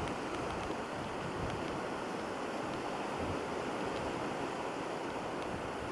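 Steady coastal background noise: surf washing and wind, with no distinct event.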